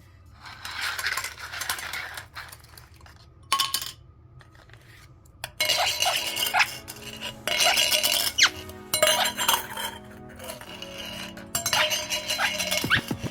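Household lids and containers clattering and clinking on a hard floor in several bursts as a Quaker parrot tosses and chases them. The busiest stretch comes in the middle.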